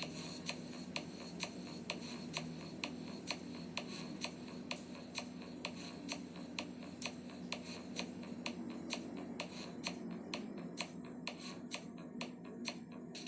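Steady, even ticking, about two ticks a second, over a low steady hum.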